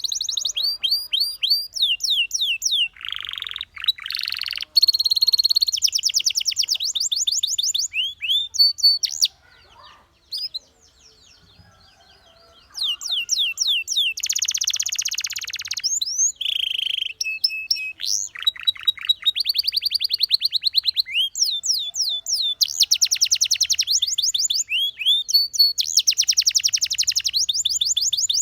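Canary singing: phrase after phrase of fast repeated notes and rapid trills, with a pause of a few seconds near the middle.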